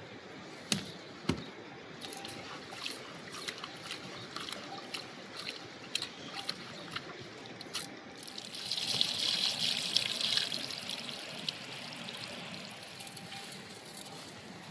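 Rain falling steadily with scattered sharp drips, and a louder rush of water for about two seconds past the middle.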